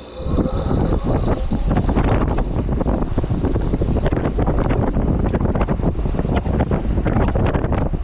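2024 Luxaire heat pump running just after startup in heat mode: a steady, loud rush of running machinery with gusty air buffeting the microphone.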